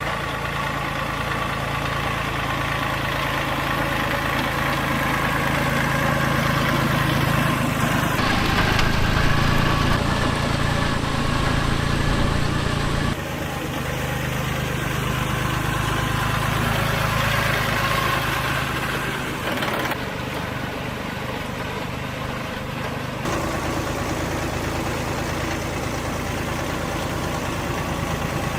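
Vehicle engine idling steadily. The sound changes abruptly several times.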